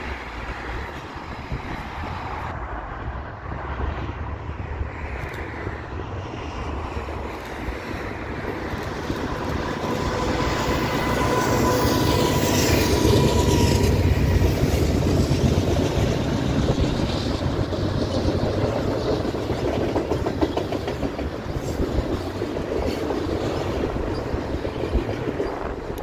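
CN freight train passing on steel wheels. It grows louder from about a third of the way in and is loudest around the middle, then a long string of centerbeam flatcars loaded with wrapped lumber rolls by steadily.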